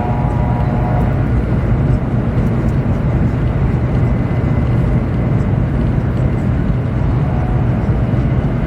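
Steady low rumble and hum inside the passenger car of a Chinese high-speed bullet train running at speed, with a faint whine that fades out about a second in.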